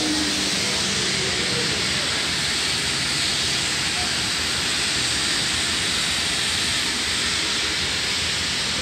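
Steam locomotive standing and venting steam: a steady, loud hiss that does not change.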